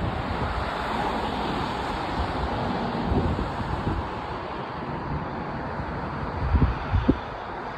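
Wind buffeting the microphone, a fluttering low rumble over a steady rushing noise, with a few brief low thumps near the end.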